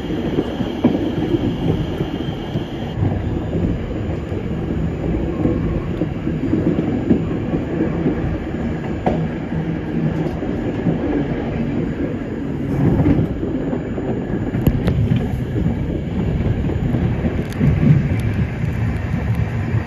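Passenger train running along the track: a steady rumble of wheels on rails with a few sharp clicks from rail joints. The sound changes abruptly about three seconds in.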